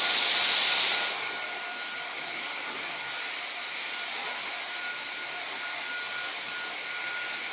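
Steady mechanical whir and hiss with a faint thin high whine, much louder for about the first second before settling to a lower even level.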